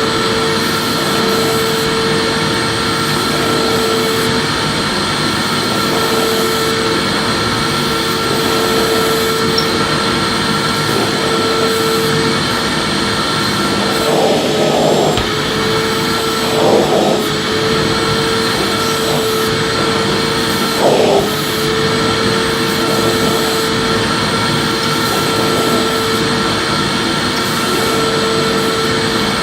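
Electric vacuum cleaner running steadily with a constant whine, being moved over the floor; its tone changes briefly a few times around the middle.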